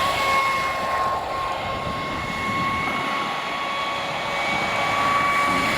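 Traxxas Spartan RC speedboat's brushless motor running flat out, a steady high-pitched whine over the rush of the hull on the water.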